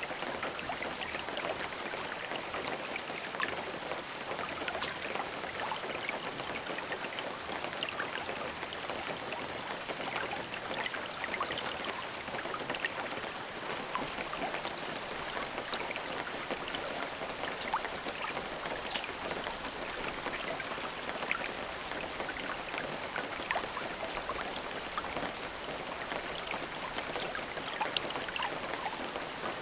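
Steady rain, a constant hiss of rainfall with many individual drops pattering and ticking on a surface.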